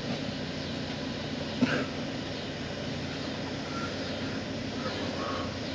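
Steady low engine drone, with one sharp knock about one and a half seconds in.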